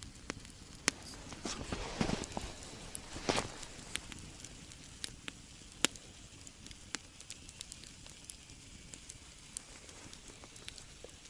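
Wood campfire crackling, with scattered sharp pops. About two and three seconds in come two louder, rougher stretches of crunching noise.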